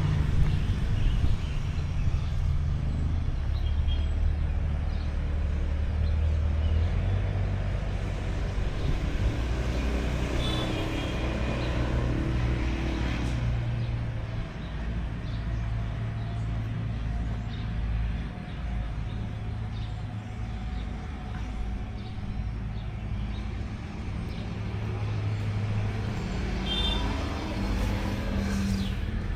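Steady low rumble of a road vehicle running, engine and road noise, with a few brief higher chirps about ten seconds in and near the end.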